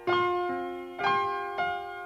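Slow piano music: single notes struck about every half second, each ringing and fading.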